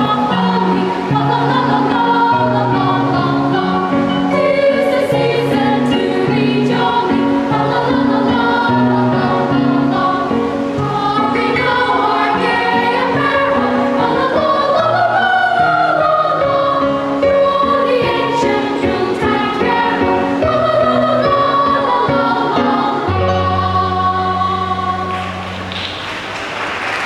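A children's choir sings a Christmas carol over a rhythmic instrumental accompaniment and ends on a long held final chord. Applause starts just before the end.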